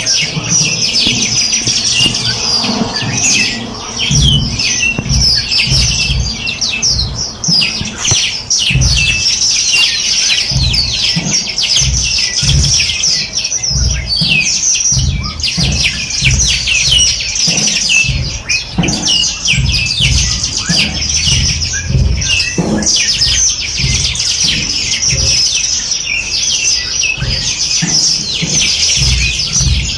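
A dense chorus of many small birds chirping and trilling without a break, with a low uneven rumble underneath.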